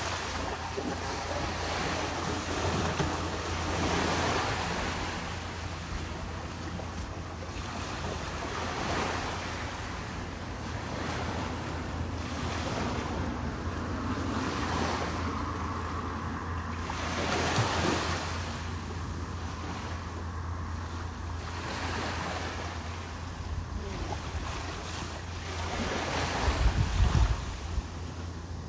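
Ocean surf washing in and out in slow swells, with wind rumbling on the microphone that gusts harder near the end.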